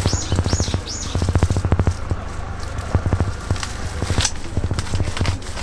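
Pizza being prepared in a food truck: rapid tapping and clicking over a steady low hum, with a few short high squeaks in the first second.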